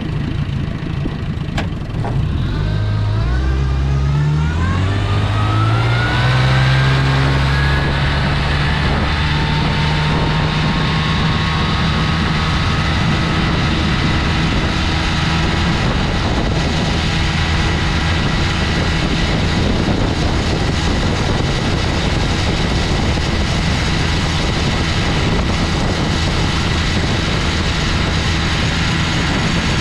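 1960 Gale Buccaneer 15 hp two-cylinder two-stroke outboard motor being opened up: its pitch climbs in steps over a few seconds as the throttle comes up, then holds steady at speed, running strong with no loss of power.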